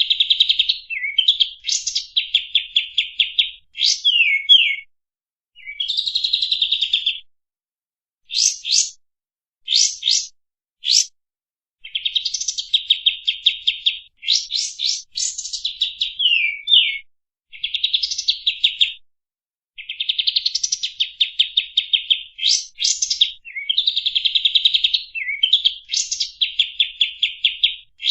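Kapas tembak bulbul singing: bursts of rapid chattering trills, each half a second to two seconds long, broken by short gaps and sharp falling notes.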